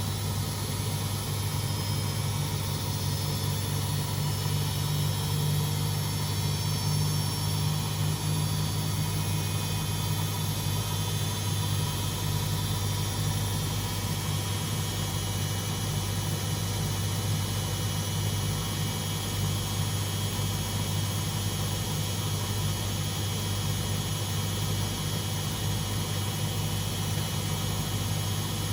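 Beko WMD 46160 front-loading washing machine running with a steady, unbroken low drone and hum.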